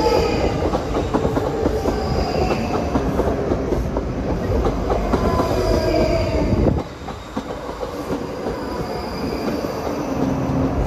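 Two coupled ScotRail Class 334 electric multiple units running past close by, wheels clattering over the rail joints with a faint high wheel squeal. The clatter stops abruptly about seven seconds in, leaving a quieter steady rumble.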